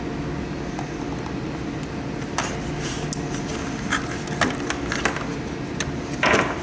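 Scattered clicks and knocks of hands handling the plastic housing and parts of a humidifier being taken apart, with a louder rustling scrape near the end, over a steady low background hum.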